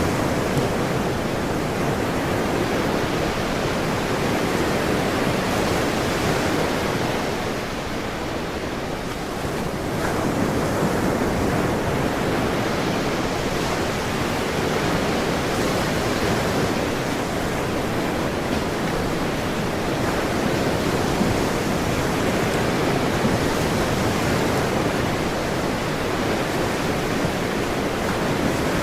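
Ocean surf washing continuously, a steady rush of breaking waves that eases slightly about a third of the way in and then swells back.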